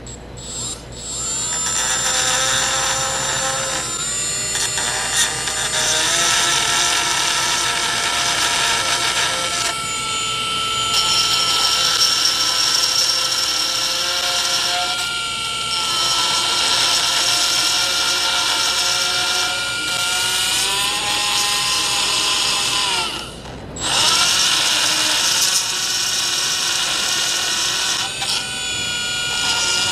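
High-speed grinder with a carbide burr cutting into the welded joint of a cast iron lathe handle: a steady high whine with several tones that shifts in pitch as the burr bites. It stops briefly about three-quarters of the way through, then starts again.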